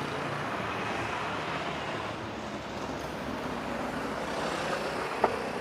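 Steady road traffic noise from passing vehicles on a busy street, with a single short click near the end.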